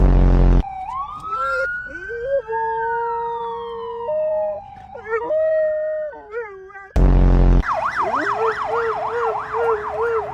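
An emergency-vehicle siren wailing slowly, then switching to a fast yelp about four cycles a second near the end, with dogs howling along in long held notes that step up and down in pitch. Two short, loud bursts of deep noise break in, at the start and about seven seconds in.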